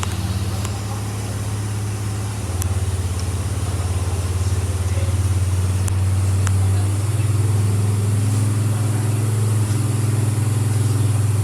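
Suzuki V-Strom 650XT's 645 cc V-twin engine idling steadily with a low, even beat.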